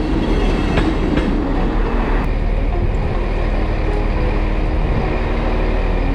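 Passenger train running, a steady rumble with a couple of faint clicks about a second in.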